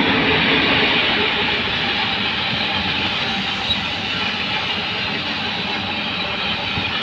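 ET22 electric locomotive hauling a train of car-carrier wagons past at close range: the steady rush and rumble of wheels on rail. It is loudest as the locomotive goes by at the start, then evens out as the wagons roll past.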